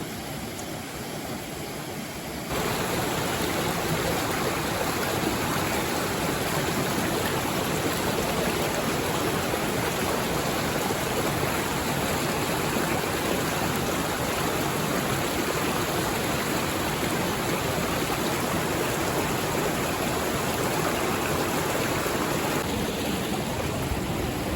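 Mountain stream rushing steadily over rocks, a constant even water noise that grows louder about two and a half seconds in.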